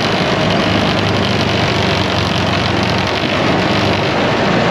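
ATV engine running steadily under way on a trail, its low hum constant over a steady noisy wash.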